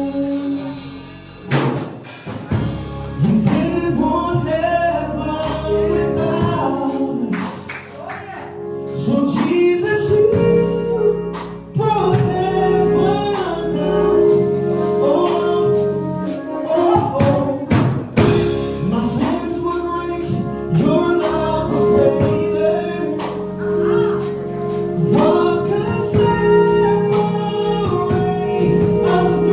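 Gospel music: singers over a band, with held organ-like chords and percussion.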